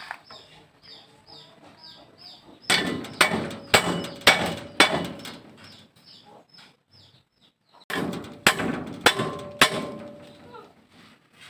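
Two runs of sharp, loud knocks with a short metallic ring, about two a second: five of them, then after a pause four more. Under them runs a faint chirping that repeats about twice a second.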